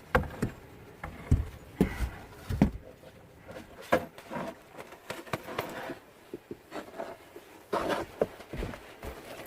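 Snow shovel working packed snow: a dozen or so irregular dull thumps and knocks, with a scraping patch around eight seconds in.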